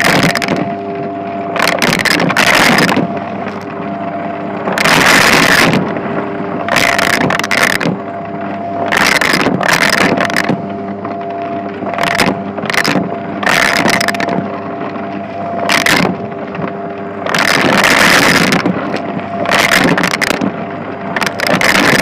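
Shark vacuum cleaner running on a shag rug: a steady motor hum, with a surge of rushing suction noise on each stroke, every second or two.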